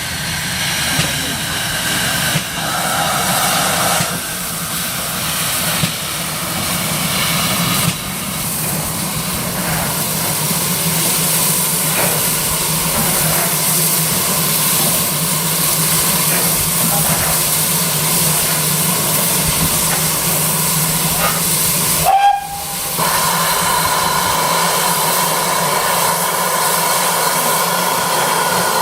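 Steam hissing steadily from GWR 5600 class 0-6-2T tank locomotive No. 6695, with no exhaust beats. The hiss breaks off for a moment about three-quarters of the way through, then goes on with a faint steady tone over it.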